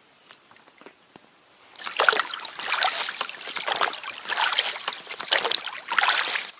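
Water splashing and sloshing in loud, uneven surges about once a second, starting about two seconds in and cutting off abruptly.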